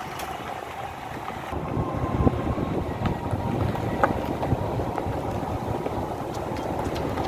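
A vehicle driving along a road, with a low rumble that grows heavier after the first second and a few sharp knocks and rattles as it goes over bumps.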